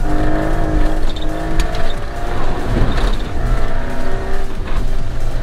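Car engine running hard during a rallycross run, its pitch holding fairly level, easing off briefly about halfway through, then pulling again.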